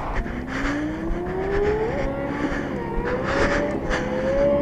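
Motorcycle engine revving, its pitch climbing smoothly for about two seconds and then wavering up and down, over steady road and wind noise.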